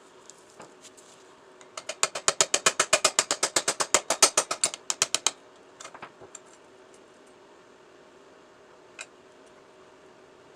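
Ratchet wrench being worked in a fast, even run of sharp clicks, about eight a second for some three seconds, followed by a few scattered clicks and one more click later.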